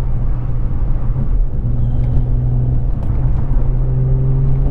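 Infiniti G35's VQ35DE V6 engine running through a Z1 touring exhaust at a steady cruise, a constant low drone with road noise.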